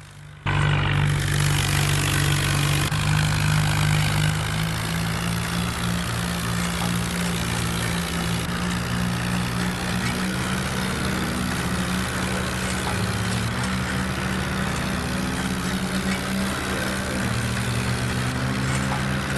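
Swaraj 855 tractor's three-cylinder diesel engine running steadily, with small shifts in pitch; it comes in loud suddenly about half a second in.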